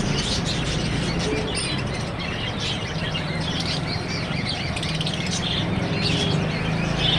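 Many small birds chirping continually, over a steady low hum.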